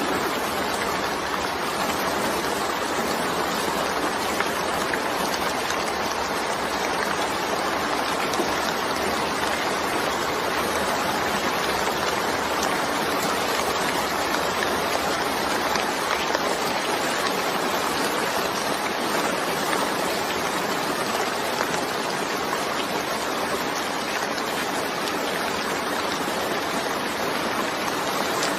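Steady rain, an even hiss with no breaks or separate claps.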